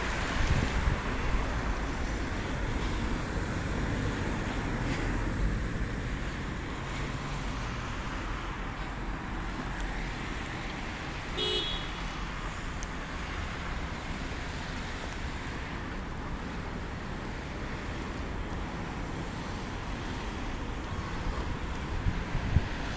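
City street traffic: a steady rumble of passing cars, with a brief beep about halfway through.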